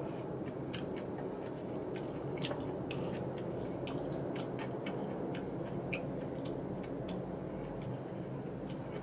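A person chewing food with the mouth closed, close to the microphone: soft, irregular mouth clicks over a steady low hum.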